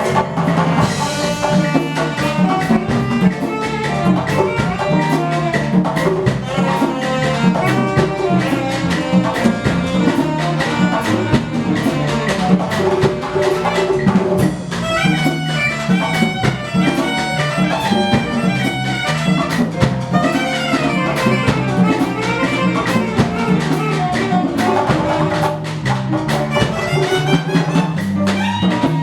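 Live ensemble music: Afro-Cuban percussion playing a steady rhythm under pitched melody instruments.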